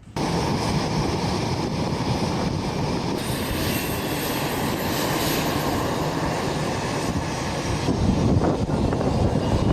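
Fighter jet engine running with a loud, steady roar that starts suddenly, a thin high whine joining about three seconds in.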